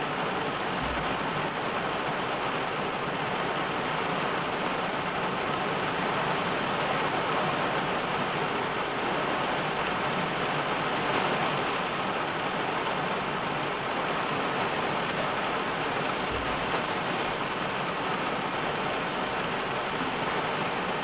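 Steady rain falling on a car's roof and windshield, heard from inside the car as an even, dense patter.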